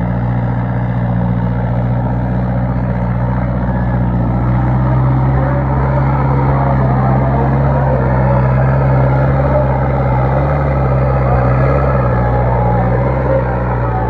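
Sonalika 60 tractor's diesel engine running steadily under heavy load while pulling an 11×11 harrow, getting a little louder about four seconds in.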